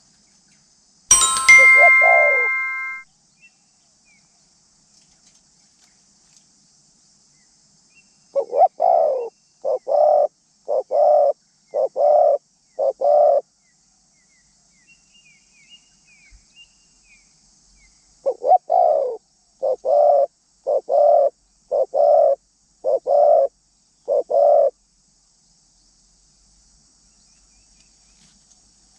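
Zebra dove cooing: two runs of short, low coos, about six and then seven notes, each a little under a second apart. A sharp click with a brief ringing chime comes near the start.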